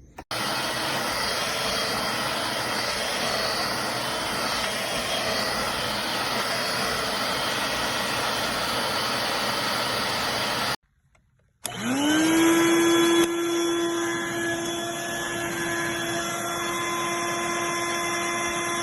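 Dirt Devil Vibe corded stick vacuum running with a steady rushing noise. After a short break it is switched on again: the motor spins up, its whine rising quickly, then holds steady.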